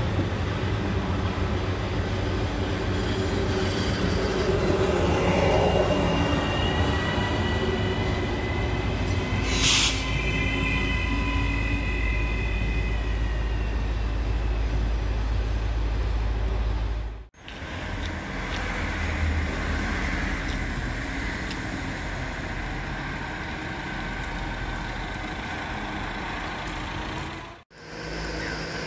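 Electric regional trains running through a station: a low, steady rumble with high whining tones from the motors or wheels, and a sharp click about ten seconds in. The sound cuts off abruptly twice, and each time another train's running rumble and whine picks up.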